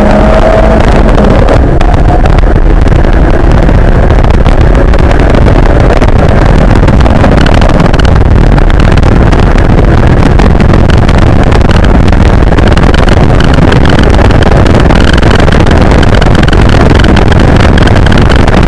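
Nissan 240SX's KA24DE 2.4-litre inline-four running at speed, with road and wind noise inside the cabin, loud and near full volume on the camera microphone.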